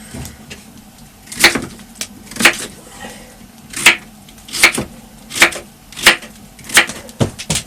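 A series of about eight sharp knocks, roughly one a second, starting a little over a second in.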